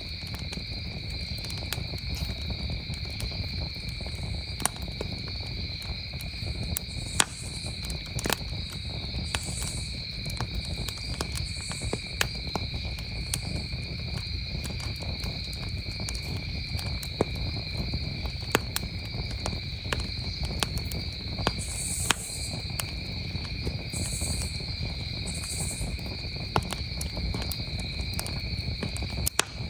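Wood campfire crackling, with sharp pops scattered irregularly over a low, steady rush, while crickets trill continuously at a high, even pitch.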